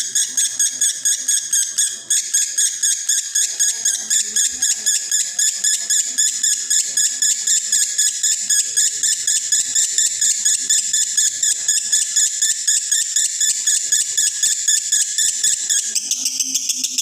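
Male lovebird in breeding condition singing a long unbroken 'konslet' chatter: rapid high chirps, about five to six a second, with no pause. About 16 s in, the lower part of the chatter drops out and it goes on higher and thinner.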